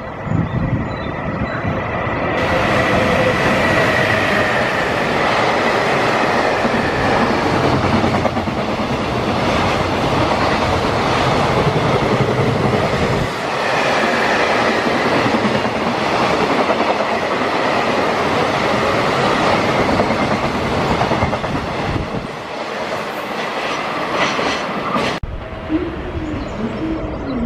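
Freight train passing at speed, its wheels clattering over the rail joints in a steady rumble, with a thin whine that comes and goes. The sound changes suddenly near the end.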